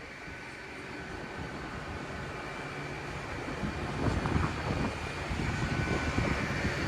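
GWR Class 802 bi-mode train standing at the platform with its underfloor diesel engines running and a steady whine, the low rumble building about four seconds in as it gets ready to depart.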